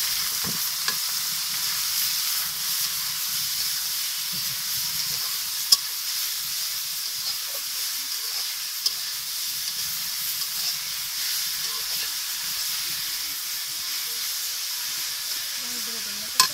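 Leafy greens frying in hot oil in a black iron wok while being stirred with a metal spatula: a loud, steady sizzle with soft scraping and a few sharp clicks.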